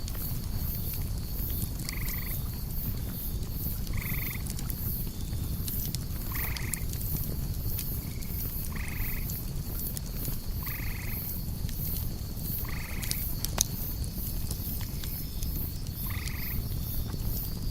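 Night ambience: a short call from a night animal repeating about every two seconds over a steady, fast-pulsing chirring of crickets, with the low crackle of a campfire and an occasional sharp pop.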